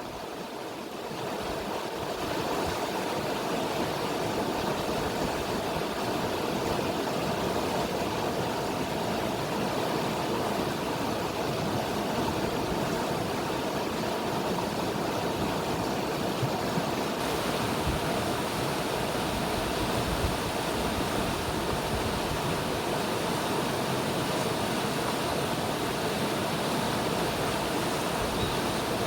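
River water flowing in a steady, even rush, rising slightly in level in the first couple of seconds and then holding constant.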